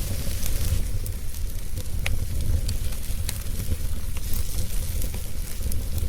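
Campfire burning, with scattered sharp crackles and pops over a steady hiss and low rumble.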